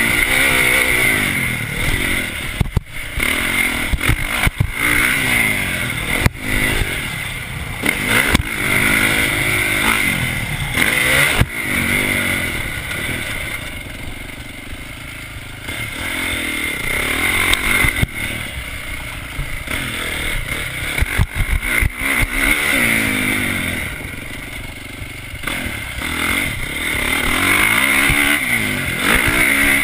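Motocross bike engine revving up and down over and over as the throttle is worked, easing off twice, about halfway through and again a little later. Scattered knocks and rattles come through as well.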